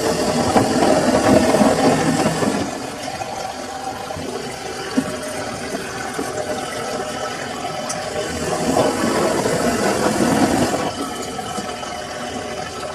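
Samsung washing machine in its wash cycle: the drum tumbling the load with water sloshing. It swells louder for the first couple of seconds and again from about eight to eleven seconds in, and is quieter in between as the drum pauses or turns the other way.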